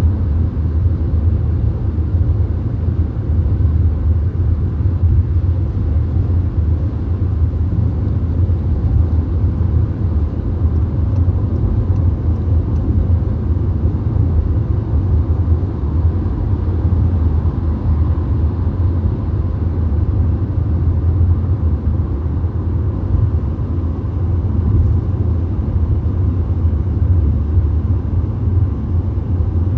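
Steady cabin noise inside a VW Golf cruising at motorway speed: a deep, even road and engine rumble with a fainter rush of air above it.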